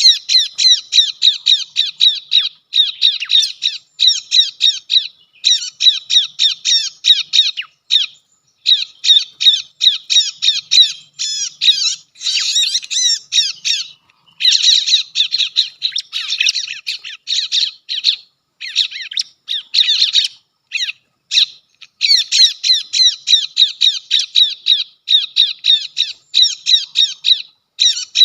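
Bar-winged prinia (ciblek) calling: a fast, loud run of sharp, high chirps, about five or six a second. The chirps come in long bursts broken by short pauses, as used to lure the birds.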